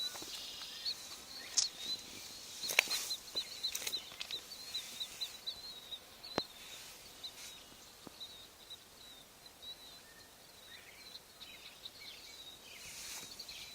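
Outdoor ambience with a small bird chirping repeatedly: quick, high chirps several a second for the first few seconds, then sparser, with a few faint clicks.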